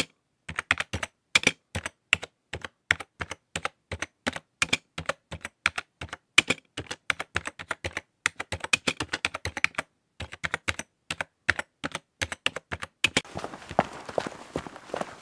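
Typing on a computer keyboard: quick key clicks in irregular bursts with short pauses. About two seconds before the end it gives way to a different sound with a steady background hiss and fainter knocks.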